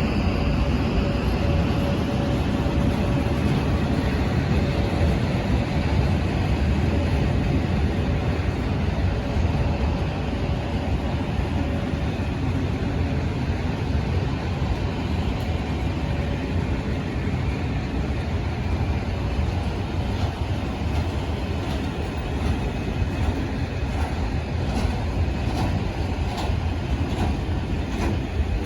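Train running by on the rails, a steady heavy rumble of wheels and cars, with a faint steady tone that fades out over the first half and a few sharp clicks near the end.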